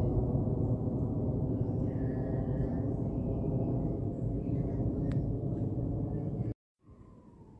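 Aircraft flying overhead: a steady, loud, low rumble with a humming tone in it, which cuts off suddenly near the end. A siren's wail starts faintly just after.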